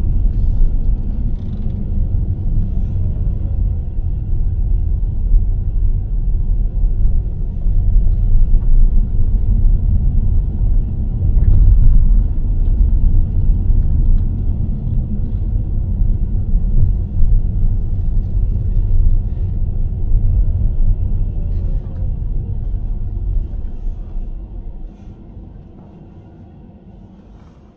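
A car driving on a road: a steady low rumble of engine and road noise, fading out over the last few seconds.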